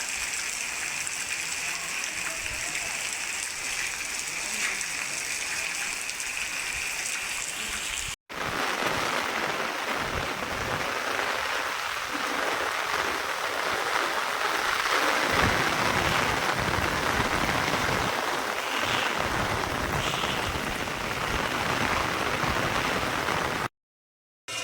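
Rain falling steadily as an even hiss. It cuts out for an instant about eight seconds in and resumes louder and fuller, then stops dead for about a second near the end.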